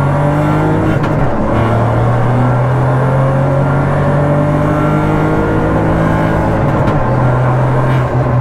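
Rally-prepared Volkswagen Polo's engine revved hard in first gear, heard from inside the stripped-out cabin. It holds a steady high drone that dips briefly about a second in and again near the end.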